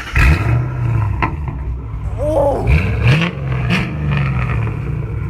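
Ford Mustang GT's three-valve V8 accelerating hard, revving up several times as it pulls through the gears, with a few sharp exhaust pops.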